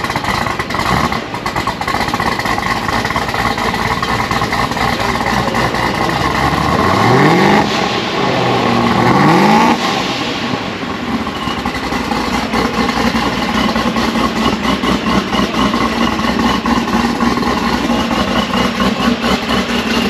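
A V8 car engine idling, blipped twice: the revs rise briefly about seven and nine seconds in, then it settles back to a steady idle.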